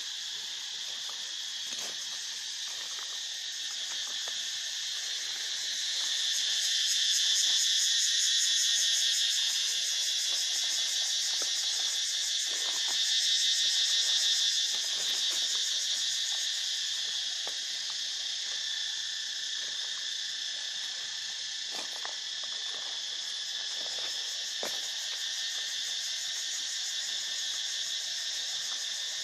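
Dense insect chorus: a continuous high-pitched buzzing that swells louder twice in the first half, then settles back to a steady level.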